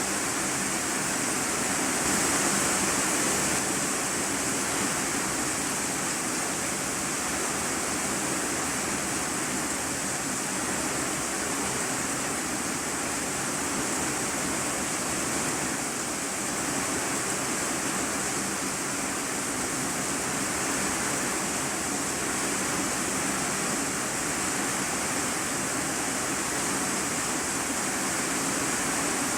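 Steady, heavy rain drumming on a corrugated iron-sheet roof, heard from the room below as a dense, even hiss.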